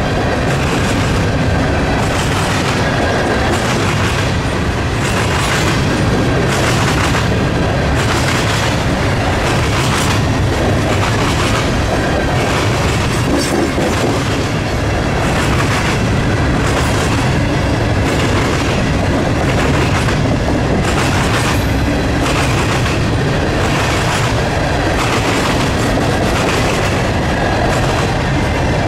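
Freight train cars rolling past close by, their steel wheels clacking over rail joints in a steady, continuous run, with a faint thin squeal from the wheels at times.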